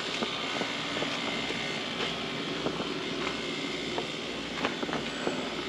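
A steady engine-like drone with a few light clicks and taps over it.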